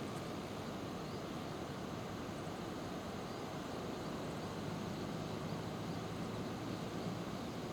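Steady outdoor background rumble and hiss with a faint low hum, and no distinct calls or events.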